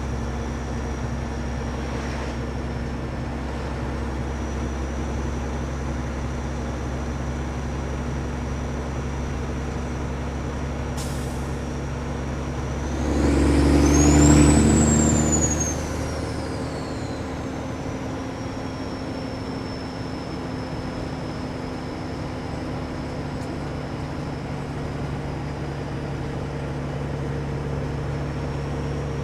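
Kenworth W900 semi truck's diesel engine running steadily on the road, with a faint high whistle over it. About halfway through, the sound swells louder for about three seconds, and a high whistle rises and falls, then the engine settles back to its steady note.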